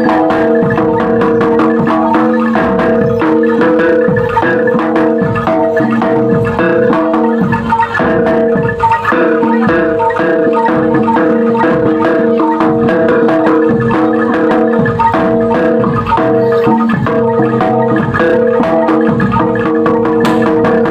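Loud, continuous gamelan-style music: struck metallophones ringing steady notes in a fast, dense rhythm over drums.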